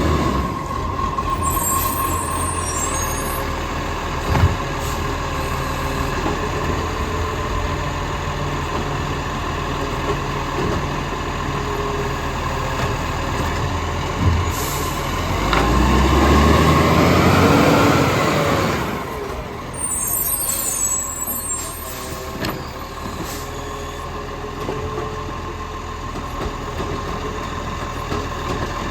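Garbage truck's diesel engine running steadily, with short air-brake hisses and the engine revving up and back down about two-thirds of the way through.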